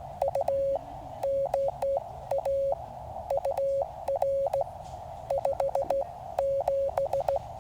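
Morse code (CW) from a QCX mini transceiver's audio: a steady single tone keyed on and off in dots and dashes, heard over the hiss of the radio's narrow CW filter.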